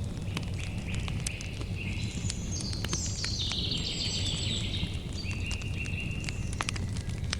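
Campfire crackling, with sharp pops scattered through it over a steady low rumble. Crickets trill high above it in steady stretches that shift pitch several times.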